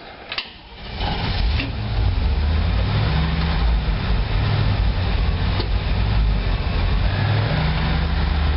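The school bus's GMC 366 gasoline V8 comes in about a second in and runs loudly and steadily, its engine speed shifting up and down a couple of times. The engine has just had a rebuilt carburettor fitted and only stays running with the choke on.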